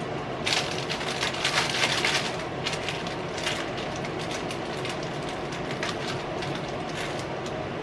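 Plastic packaging rustling and crinkling, with light knocks of items being moved about in a freezer, thick for the first few seconds and then only now and then. A steady hiss runs underneath.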